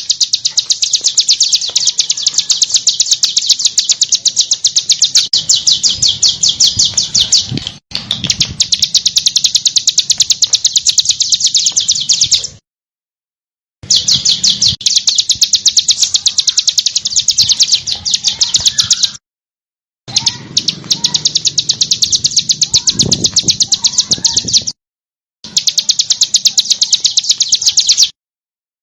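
Songbird singing very rapid, harsh runs of repeated high notes, the 'tembakan' and 'besetan' phrases of a masteran track. It comes in several-second bouts, each cut off abruptly by a moment of dead silence where the recording is spliced.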